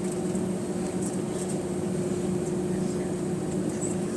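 Steady mechanical hum heard inside the cabin of an Airbus A320 on the ground, with two steady low tones and a few faint light ticks.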